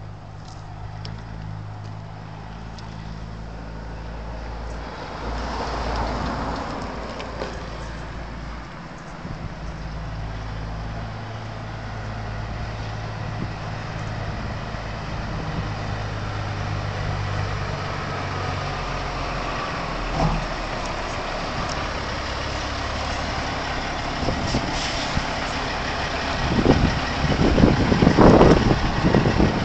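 Tractor-trailer's engine running steadily as the truck pulls in and idles, growing slowly louder, with a burst of louder noise near the end.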